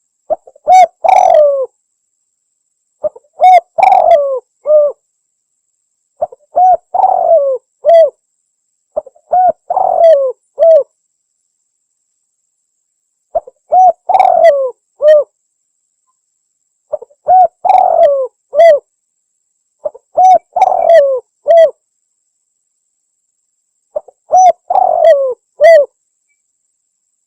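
Spotted dove (tekukur) cooing, a loud phrase of several rising-and-falling coos repeated about eight times, roughly one phrase every three seconds. This is the call used as a lure to draw in spotted doves.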